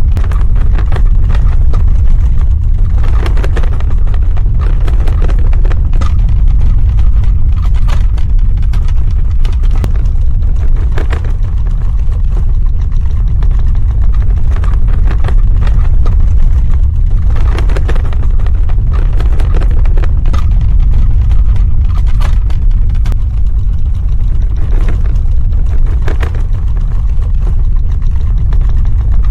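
Earthquake sound effect: a continuous low rumble with irregular crackling and rattling over it.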